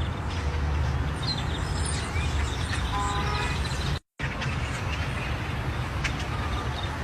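A steady low rumble with scattered short chirps from a large flock of birds. About three seconds in there is a short, horn-like tone with several pitches, and the sound drops out for an instant just after four seconds.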